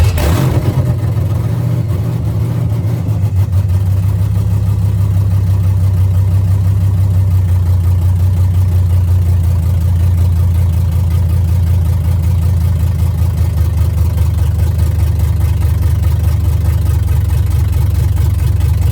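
A GM Gen III LS V8 engine running on open headers with no mufflers, just after starting. It surges briefly at first, then settles into a steady idle.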